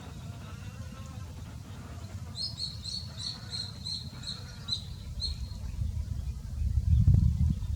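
A bird chirping: a quick run of about ten short, high chirps, about three a second, over a low rumble that grows louder near the end.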